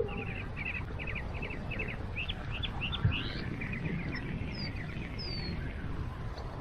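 Small songbirds chirping: quick runs of short repeated notes, then a few rising notes about two to three seconds in, over a steady low rumble.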